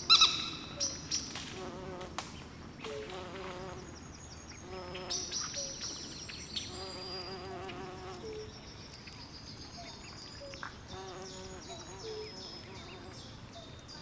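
Swamp chorus of frogs and insects. Short low calls and warbling trills repeat throughout, over rows of high, quickly repeated chirps. A loud, sharp call comes right at the start.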